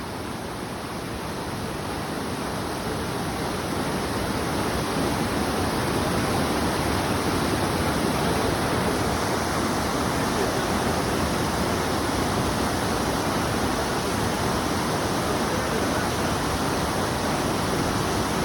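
Steady rush of flowing water, growing louder over the first few seconds and then holding even.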